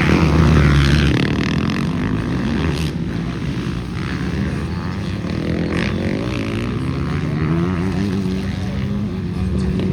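Several motocross motorcycle engines racing, revving up and down as the bikes ride the track. Loudest in about the first second, then a steady mix of engines at different pitches.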